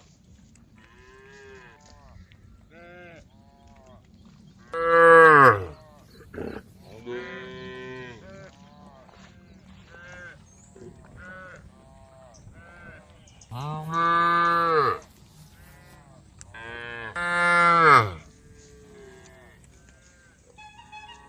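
Cows mooing, several calls in a row: three loud, long moos about five seconds in, around fourteen seconds and near eighteen seconds, the first and last dropping in pitch at the end, with quieter moos between.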